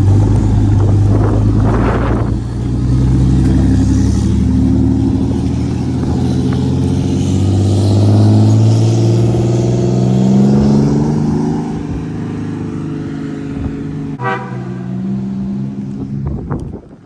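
Motor vehicle engine running and accelerating, its pitch climbing and dropping back several times as it goes through the gears. There is a sharp click about fourteen seconds in.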